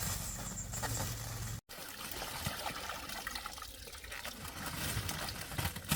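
Water splashing and trickling as small carp are caught out of the water. A steady low hum runs under the first second and a half, then stops abruptly.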